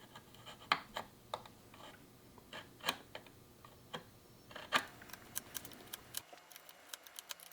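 Scattered light clicks and taps at irregular intervals from a marking knife and wooden boards being handled during dovetail layout. The clicks come closer together in the last second or so.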